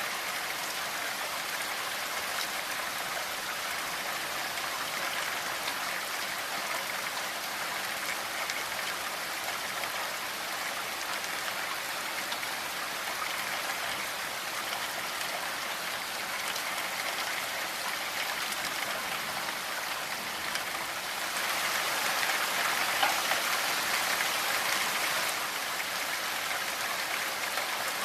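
Steady rainfall, with drops pattering on surfaces. It grows heavier for a few seconds about three-quarters of the way through, then eases back.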